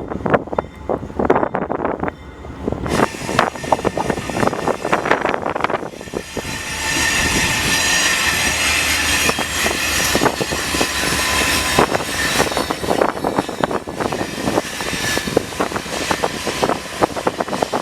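Freight train rolling through a curve: wagon wheels clacking rapidly over rail joints, then about six seconds in a steady loud rumble with high wheel squeal against the curved rails.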